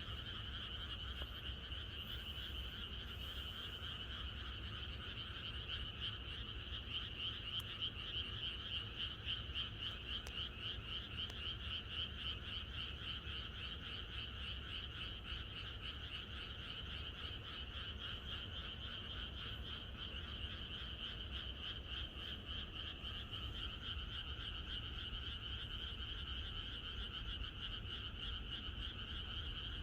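A chorus of many frogs calling at once, a dense, steady mass of fast-pulsed croaks that never lets up.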